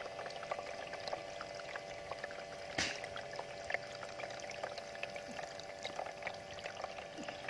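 Small bamboo water fountain running: water pouring from the bamboo spout into the basin, a steady splashing trickle with many small droplet plinks. A single sharp tap about three seconds in.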